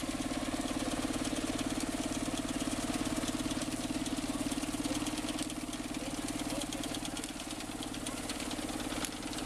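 Old Lanz tractor engine running steadily with an even, regular beat.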